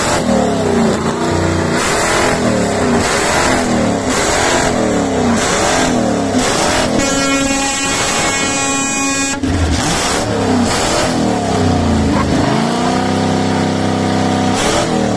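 Custom rat rod's V8 engine revved in quick repeated throttle blips, its pitch rising and falling about once a second, then held up in a longer rev near the end. A horn sounds steadily for about two seconds in the middle.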